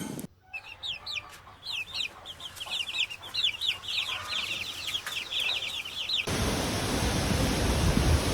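A bird calling a rapid string of high, short, downward-sweeping notes that speeds up and grows louder over about six seconds. It stops abruptly, and a steady rushing noise takes over.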